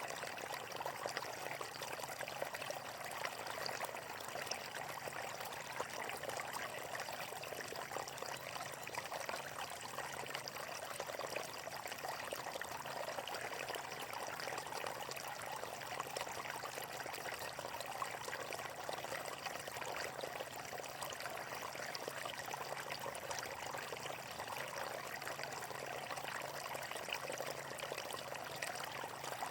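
Natural flowing water, a steady, unbroken splashing rush with no pauses.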